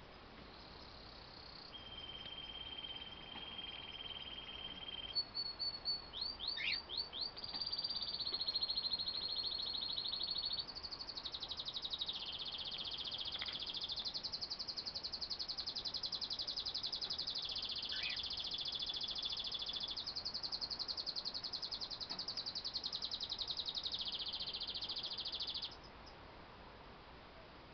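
Four-week-old cockatiel chick calling: a long run of high-pitched, rapidly pulsing calls, with a few short chirps about six to seven seconds in. The calling stops suddenly near the end.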